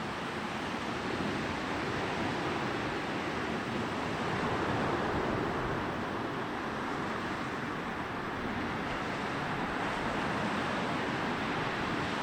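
Sea surf: waves rolling in and washing up a beach, a steady rushing that swells a little about five seconds in.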